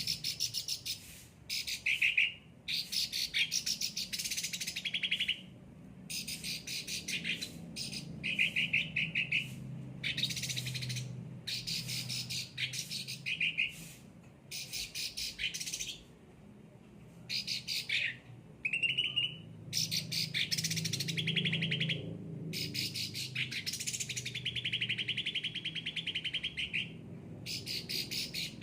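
An 'ocean green' white-eye singing, a chattering song in rapid high-pitched trilled phrases, each about a second long with short pauses between. A faint low hum runs underneath.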